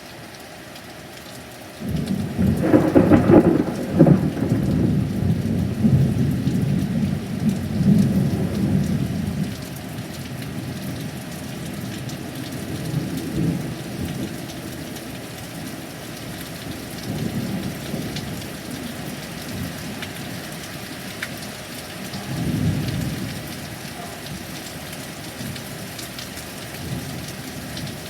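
A thunderclap from a close lightning strike breaks suddenly about two seconds in and rumbles on for several seconds, followed by fainter rolls of thunder, over steady rain.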